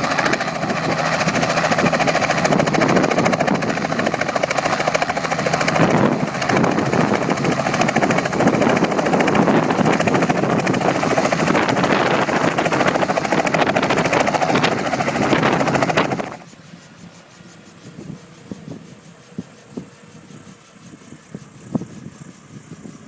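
Helicopter running loud and steady, cut off abruptly about two-thirds of the way through. The rest is a much quieter stretch with a few scattered faint clicks and knocks.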